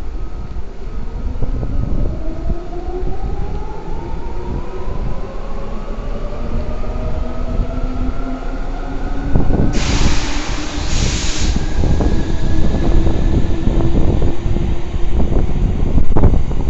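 Electric train's traction motors whining, several tones rising steadily in pitch as it accelerates along the track. A loud burst of air hiss comes about ten seconds in, and a few knocks near the end.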